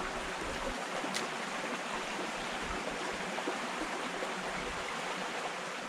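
Shallow creek water running and babbling over rocks: a steady, even rushing hiss.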